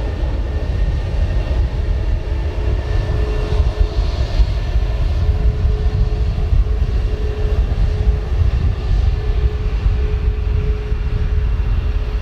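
Airbus A321LR's CFM LEAP-1A turbofans running at takeoff thrust: a steady, loud rumble with a held hum.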